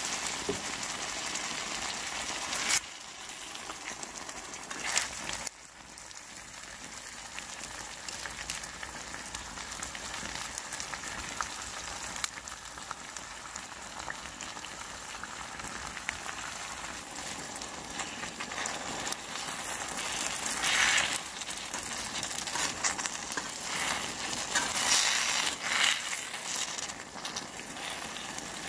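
Spicy stir-fry sizzling in a cast-iron pan over an open-flame camp stove: a steady frying hiss with scattered small crackles and clicks.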